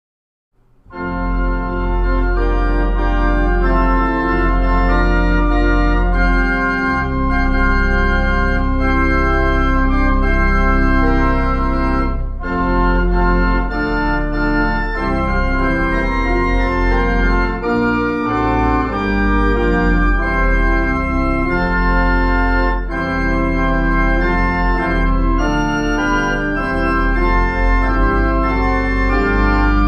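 Organ playing slow, held chords over a deep pedal bass, starting suddenly about a second in after silence.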